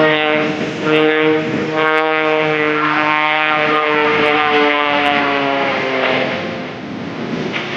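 Edge 540 aerobatic plane's piston engine and propeller, a strong pitched drone. Its pitch slides slowly downward and fades out near the end as the plane passes and draws away.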